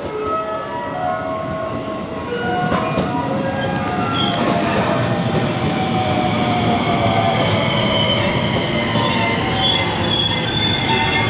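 Electric train running along the platform, its wheels squealing on the rails with high, drifting tones over a steady rumble. It grows louder about two seconds in.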